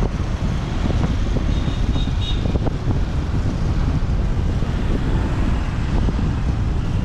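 Wind buffeting the microphone over the steady low rumble of a motorbike riding through city traffic. A few faint short high tones sound about two seconds in.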